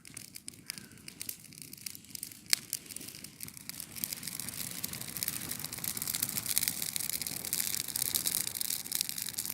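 Bonfire crackling as a heap of dry fir-tree branches catches and flares up. It begins with scattered snaps, one sharp crack about two and a half seconds in, then from about four seconds becomes a dense crackle that grows steadily louder.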